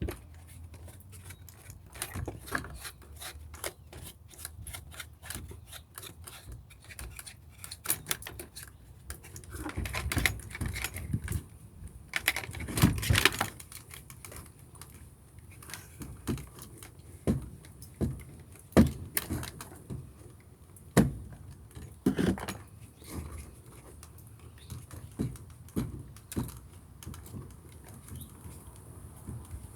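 Hard plastic parts of a Shark vacuum being handled, giving irregular clicks, taps and small rattles, with a stretch of rubbing or scraping about ten to thirteen seconds in.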